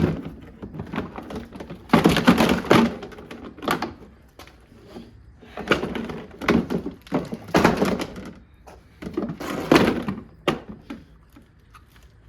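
Plastic body of a portable washing machine being smashed: clusters of thunks and cracking, about six bouts of blows, stopping shortly before the end.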